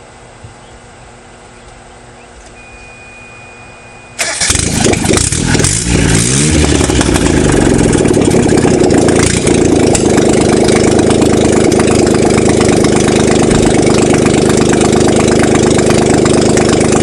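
A 1990 Geo Metro XFI's 1.0-litre three-cylinder engine starting about four seconds in, its pitch wavering for a few seconds before it settles into a steady idle. It runs loud because there is no exhaust manifold or exhaust on it.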